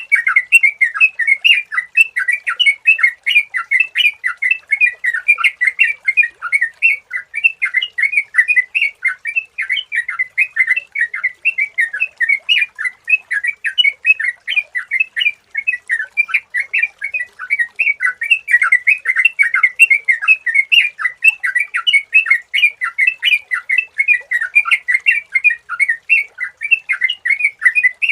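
Sooty-headed bulbul (trucukan) singing in a rapid, unbroken stream of bright chirping notes, the lively 'gacor' song played as a lure call to set other bulbuls singing.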